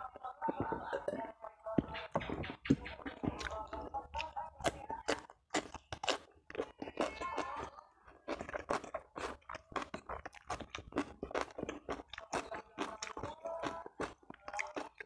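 Close-miked eating: a person chewing food, with many sharp crisp crunches throughout.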